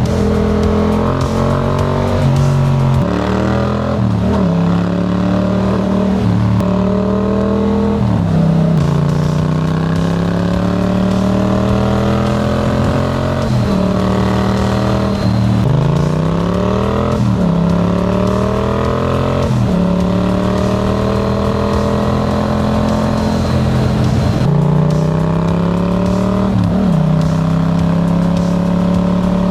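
Yamaha MT-07's 689 cc parallel-twin engine through a Black Widow aftermarket exhaust, revving over and over, its pitch climbing steadily and then dropping sharply about ten times.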